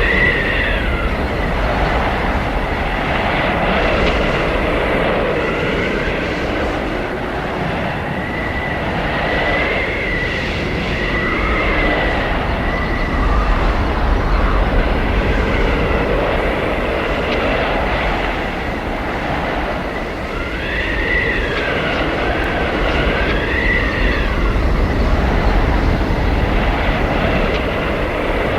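Blizzard wind blowing hard with a low rumble, gusting up and down, with high whistling howls that rise and fall, strongest about ten seconds in and again about two-thirds of the way through.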